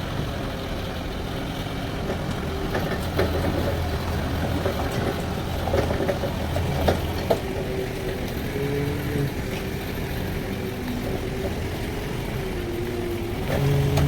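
Engine-driven band sawmill running steadily, with a few short knocks about three to seven seconds in, and the low hum getting louder near the end.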